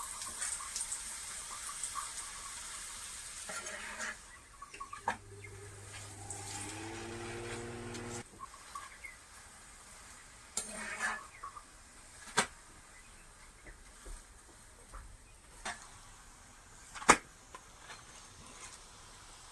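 Parathas frying in oil in a pan: a sizzling hiss at first, with the clink and scrape of a metal spatula against the pan and a few sharp knocks later on. A steady low hum sounds for about three seconds from around five seconds in.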